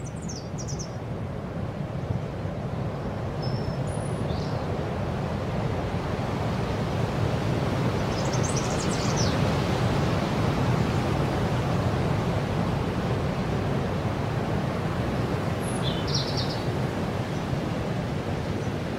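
Steady rushing background noise that swells slightly, with a few short high bird chirps: just after the start, near four seconds, around eight to nine seconds, and near sixteen seconds.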